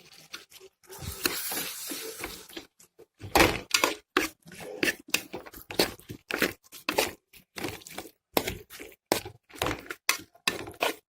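Spoon or spatula stirring chicken in a sauce-coated pan, scraping and knocking against the pan in an irregular clatter of short strikes.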